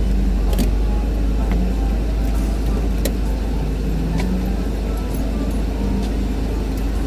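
Steady low rumble of an open-top car on the move: engine, tyre and wind noise with a few light clicks.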